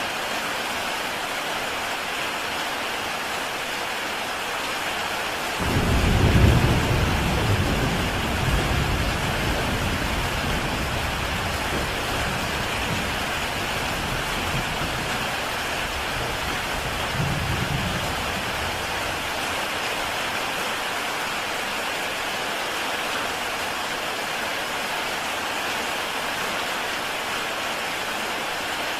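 Heavy rain falling steadily on a tile roof. About six seconds in, a low rumble of thunder starts suddenly and fades slowly over several seconds, with a second, smaller rumble a little past the middle.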